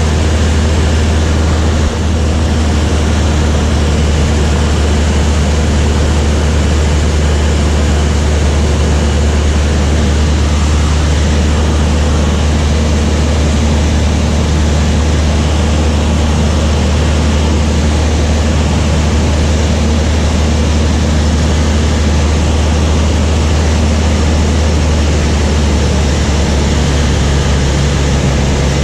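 Light propeller aircraft's engine and propeller droning steadily and loudly, with a low hum throughout and a new low note joining near the end.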